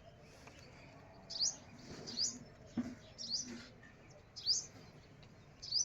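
A small bird chirping: about five short, sharp rising chirps, roughly one a second, with a soft low knock near the middle.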